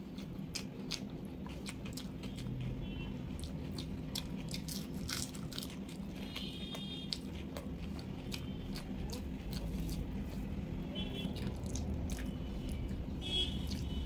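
Close-miked eating sounds of a person chewing a mouthful of rice and curry: many short wet mouth clicks and smacks. A low steady hum runs underneath.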